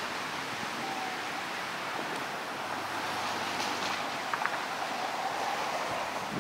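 Steady outdoor wind noise, with a couple of faint clicks about four and a half seconds in.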